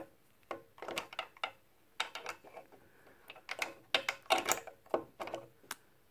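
Irregular clicks and knocks of metal and plastic parts being handled and fitted as a Dewalt DW718 miter saw is put back together, coming in several short clusters.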